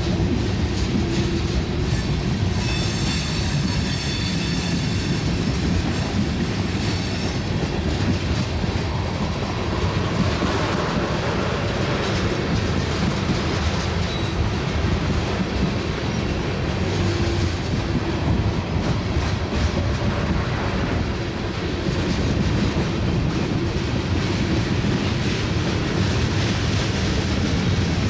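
Freight cars of a BNSF train rolling past, with a steady rumble and clatter of steel wheels on rail. A high-pitched wheel squeal rings for a few seconds near the start.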